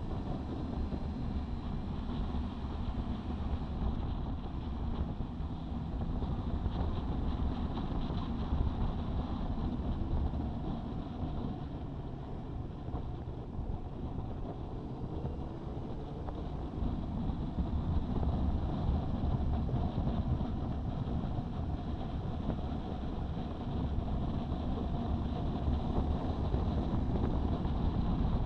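Honda CB650R's inline-four engine running through an Ixil aftermarket exhaust while the motorcycle is ridden, its note rising and falling with the throttle.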